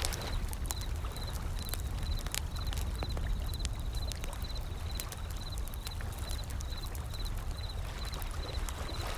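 Wood fire crackling with scattered sharp pops over a steady low wash of ocean waves. A short high chirp repeats at one pitch throughout.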